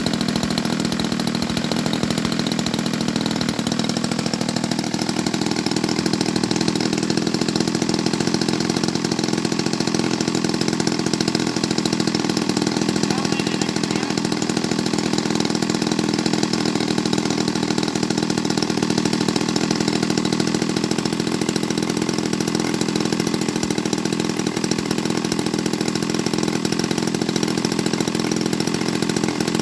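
Model airplane's petrol engine running steadily, with a slight rise in pitch about five seconds in.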